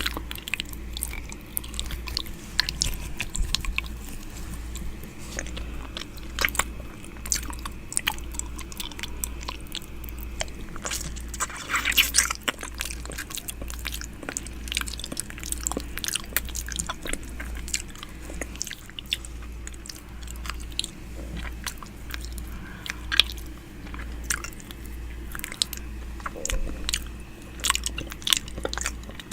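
ASMR 'ear eating' mouth sounds made right at the microphone: a steady stream of wet lip and tongue clicks, smacks and sucking noises. Under them runs a low, even hum.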